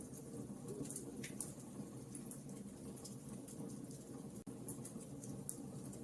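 Wood fire crackling: scattered sharp pops and snaps over a steady low rush of burning.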